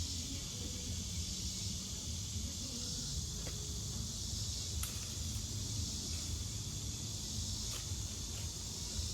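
Steady high chirring of evening insects over a low steady hum, with a few faint clicks.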